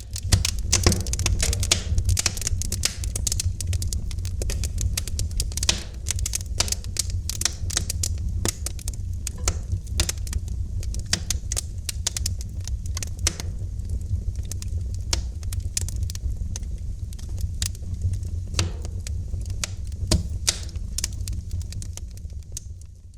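Wood fire in a fireplace crackling, with dense, irregular sharp pops and snaps over a steady low rumble of the flames.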